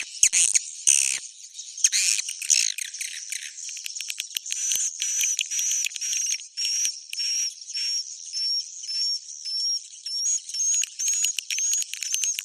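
Swiftlet roosting-call lure audio ('suara inap walet'): dense, high, twittering chirps. About halfway through they settle into a regular series of short high chirps, about two a second. It is the kind of call played in swiftlet houses to draw the birds in to roost.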